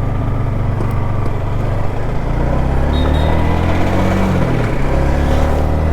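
Modified Yamaha MT-15's single-cylinder engine pulling on the road: it runs steadily, then rises in pitch from about two seconds in, drops briefly past the middle as at a gear change, and climbs again, over a steady rush of noise.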